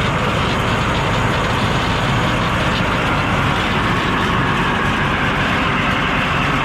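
An engine running steadily, with an even low rumble.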